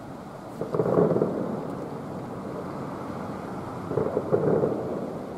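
Distant fireworks bursting: a cluster of booms about a second in and another about four seconds in, each trailing off into a rumble.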